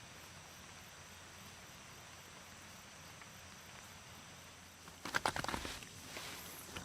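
Faint steady outdoor background hiss, then about five seconds in a run of quick footsteps starts.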